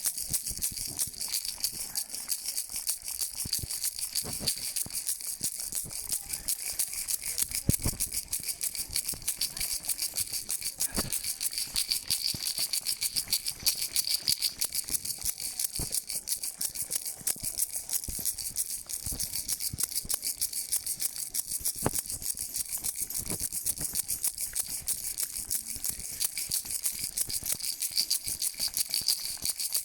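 Continuous rapid rattling of a hand-shaken noisemaker, steady throughout, with a few separate knocks now and then.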